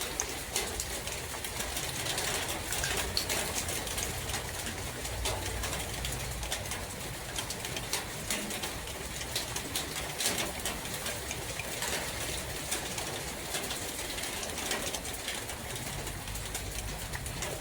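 Rain in a forest: a steady hiss with many sharp drip ticks. A bird coos low in the background now and then.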